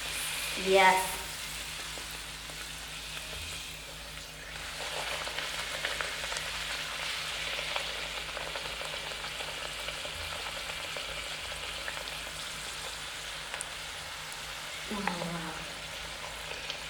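Puri dough deep-frying in hot oil: a steady sizzle and bubbling while the puri is pressed down so it puffs up.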